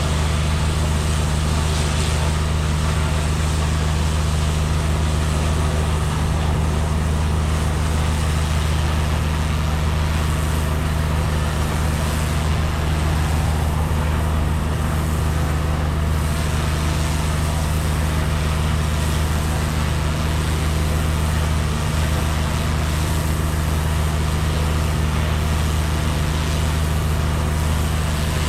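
Pressure washer running steadily: a constant low engine drone with an even hiss of spraying water over it.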